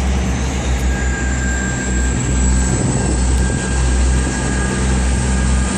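South Western Railway diesel multiple unit's engines running with a steady low drone as the train moves off, with a faint high whine over it.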